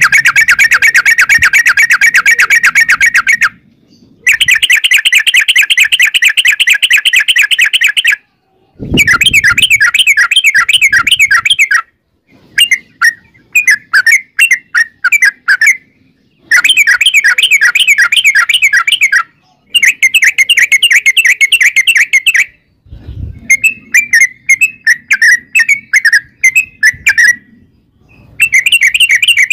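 Yellow-vented bulbul (trucukan) singing its long rapid song: runs of quick, rapidly repeated chattering notes lasting three to four seconds each, broken by short pauses, with choppier phrases in between.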